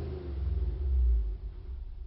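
2008 Subaru Impreza WRX STI's turbocharged flat-four through an Agency Power cat-back exhaust and Invidia catless downpipe, revs falling away after a rev into a deep low exhaust rumble. The rumble swells about a second in, then drops and settles to idle.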